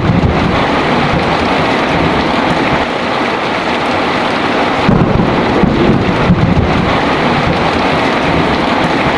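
Heavy rain falling steadily, with low rolls of thunder rumbling at the start and again about five seconds in.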